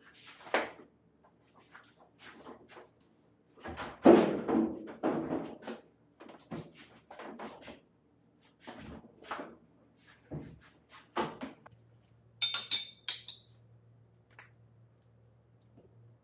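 Hands-on repair work: tools and metal parts knocking and clinking in irregular handling sounds, loudest about four seconds in, with a brief metallic jingle about twelve and a half seconds in. A low steady hum sets in near twelve seconds.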